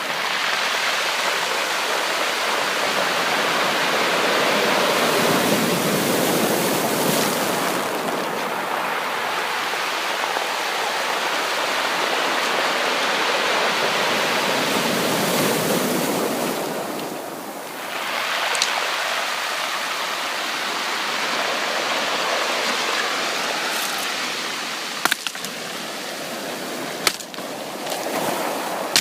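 Sea surf washing in and drawing back in slow swells, a steady rushing that rises and falls about every ten seconds. A few sharp clicks sound near the end.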